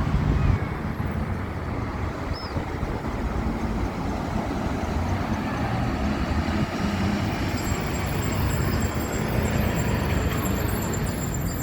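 Steady rumble of road traffic, a continuous low noise with no single vehicle standing out.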